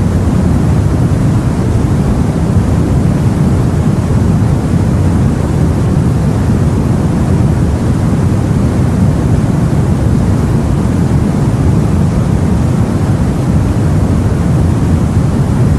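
Steady low rumbling noise of sea and wind around a boat, even, with no single wave break standing out.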